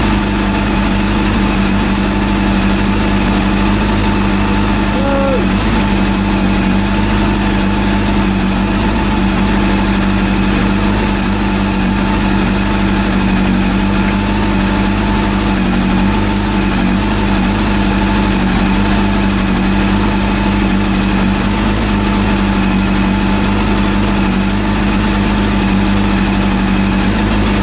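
Honda CB400 inline-four engine idling steadily on carburettors, freshly rebuilt and running.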